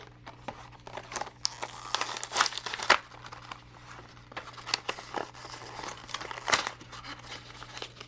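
Toy packaging being opened by hand: irregular crinkling and tearing, loudest in a cluster of sharp crackles about two to three seconds in.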